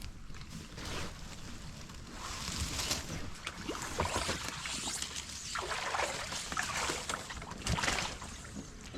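Water sloshing and splashing in irregular swells of noise, louder about a third of the way in, again past the middle and once more near the end.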